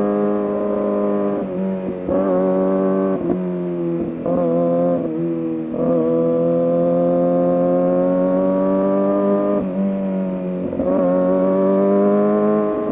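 Kawasaki ZX-6R 636's inline-four engine running through an SC Project aftermarket exhaust at sustained high revs while riding. The revs dip briefly several times as the throttle is rolled off and back on, and from about six seconds in there is a long, gradual climb in pitch.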